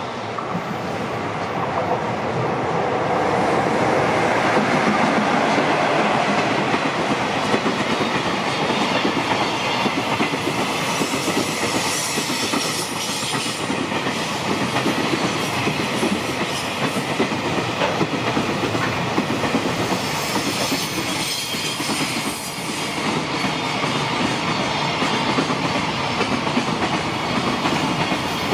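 JR Freight container train, hauled by an EF66 electric locomotive, passing close by. The sound grows louder over the first few seconds as the locomotive nears, then a long string of container wagons rolls steadily past, wheels rumbling and clacking on the rails.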